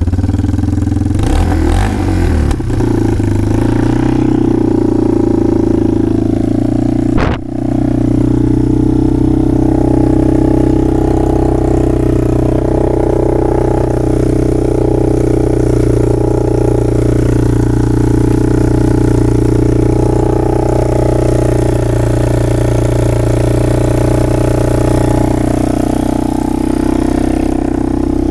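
1997 Yamaha Timberwolf ATV's single-cylinder engine running just after a cold start: uneven for the first few seconds, a brief stumble about seven seconds in, then running steadily while still cold.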